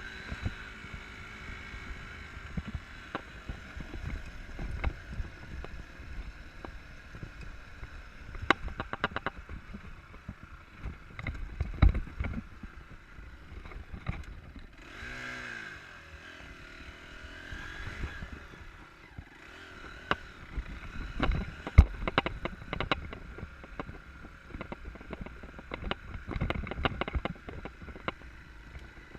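Enduro motorcycle engine running over rough off-road terrain, its revs falling and rising about halfway through. Frequent knocks and rattles come from the bike and camera over the bumps.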